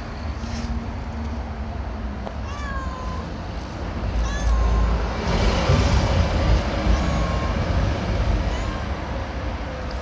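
Stray cat meowing a few short times, each call bending in pitch, over a steady low rumble that swells in the middle.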